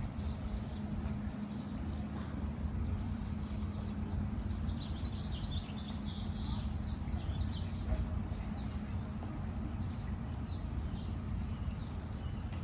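A songbird chirping: a quick run of short, high, falling chirps about five seconds in, then single chirps about a second apart, over a steady low rumble.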